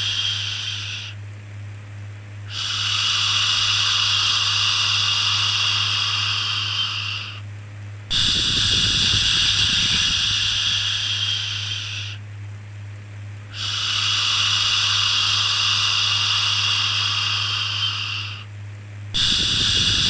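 Repeated 'shhh' shushing sound for soothing a baby: long hissing shushes of about four to five seconds each, separated by pauses of about a second. A steady low hum runs underneath.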